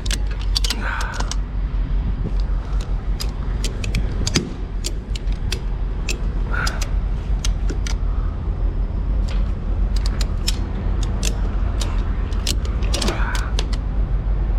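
Ratchet straps holding a flatbed trailer's load being checked and worked, giving irregular clicks and creaks.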